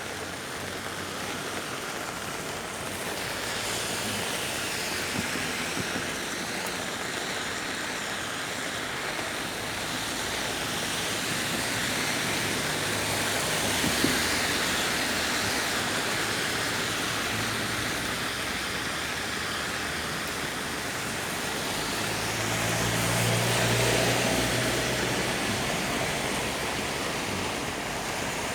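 Steady rain on a city street with traffic on wet roads. A motor vehicle passes about three-quarters of the way through, its engine hum swelling and then fading.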